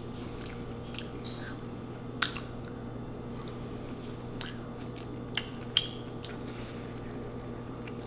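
A person chewing and biting a mouthful of combination lo mein close to the microphone: quiet mouth sounds with a few short sharp clicks, two of them close together past the middle. A steady low hum runs underneath.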